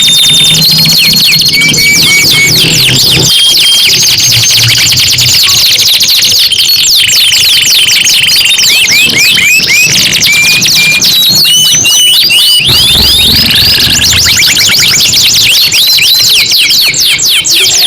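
Domestic canaries singing nonstop, loud and overlapping: fast rolling trills, repeated chirps and short whistled glides.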